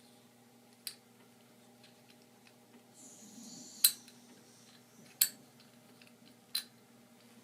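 Four sharp clicks of hard parts being handled, the loudest about four seconds in, just after a brief hiss.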